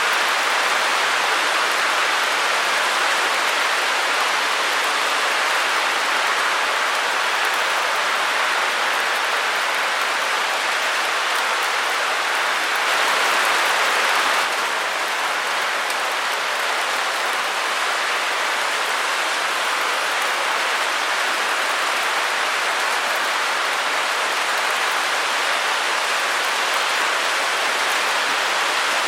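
Steady white noise: an even hiss, strongest in the middle and upper range, with hardly any low rumble. It swells slightly just before halfway through, then settles back.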